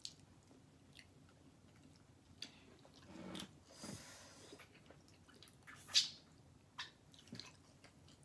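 Close-up chewing and wet mouth sounds of people eating pizza: soft, scattered smacks and clicks, with a sharper smack about six seconds in.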